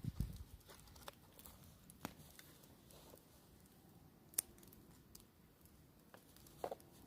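Campfire crackling faintly, with scattered sharp pops; the loudest single snap comes about four seconds in, and a short double crackle comes near the end.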